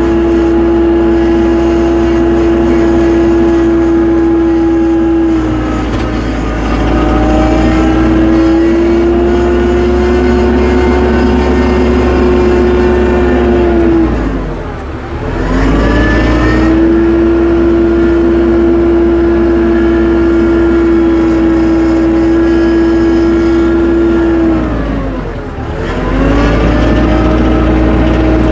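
Tractor engine running at a steady high speed, its pitch dropping sharply and then climbing back twice, about halfway through and near the end.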